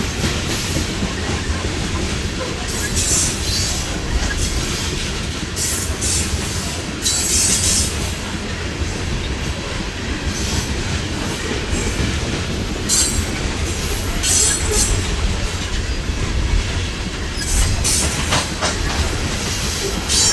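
A freight train of empty coal hoppers rolling past: a steady rumble of steel wheels on the rails with clickety-clack over the rail joints. Short, high wheel squeals cut in every few seconds.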